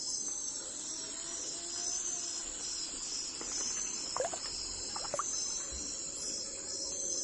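Crickets chirping steadily in even, pulsing trills, with a few short bird chirps about four and five seconds in.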